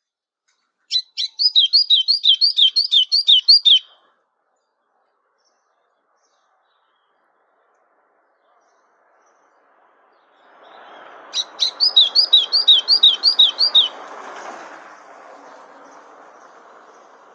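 A songbird singing two short phrases, each a quick run of about eight clear, repeated down-slurred whistled notes, the second phrase about ten seconds after the first. Under the second phrase a soft rushing noise comes in and slowly fades.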